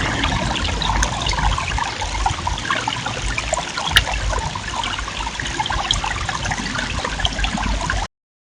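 Steady trickling, rushing water noise with a scatter of small crackles and a low rumble underneath, cutting off sharply about eight seconds in.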